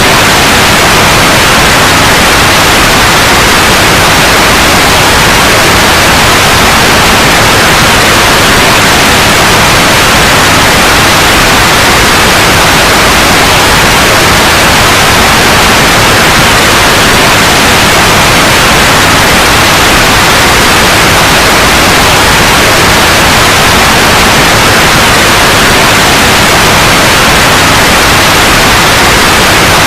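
Continuous loud white noise: a steady hiss, unchanging throughout.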